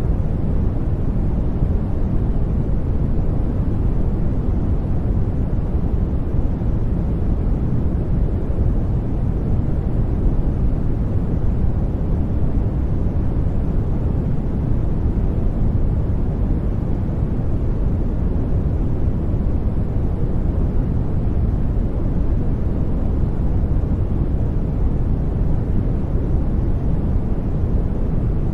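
Steady, unchanging generated sleep noise. Most of its energy sits low, so it sounds like a deep rush more than a bright hiss.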